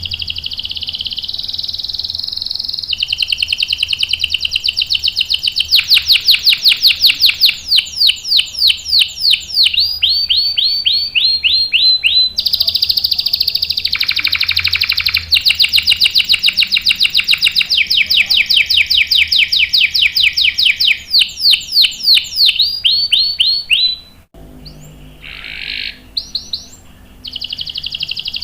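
Domestic canary singing a long rolling song: held buzzing trills alternating with fast runs of repeated sweeping notes, breaking off briefly near the end before starting again.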